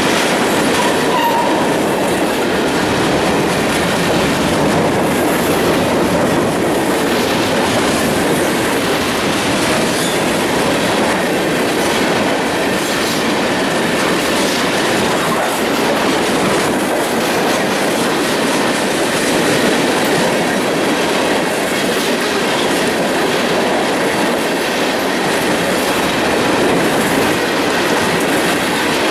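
Long freight train rolling past at speed, its steel wheels clattering steadily over the rails.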